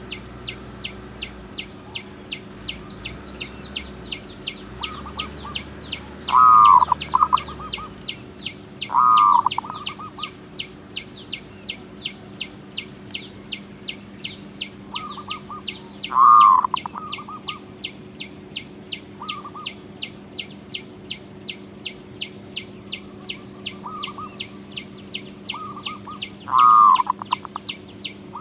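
Zebra doves cooing in short, rippling staccato phrases, four loud ones with a few fainter ones between, as a caller dove works to draw in a wild bird. Under them runs a steady, quick high chirping at about three chirps a second.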